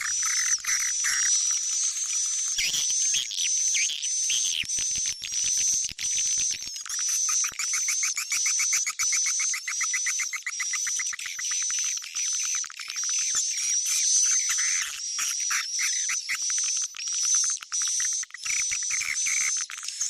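Swiftlet call recording, as used in swiftlet farming to lure birds to a nest house. It is a continuous high wavering twitter with rapid buzzy chirping trills layered over it.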